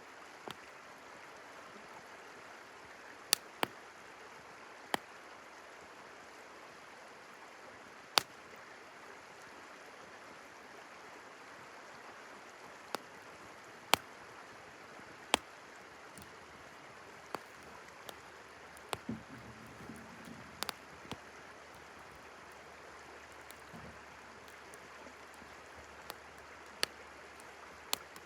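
Campfire crackling, with sharp, irregular pops a few seconds apart over the steady rush of a flowing river.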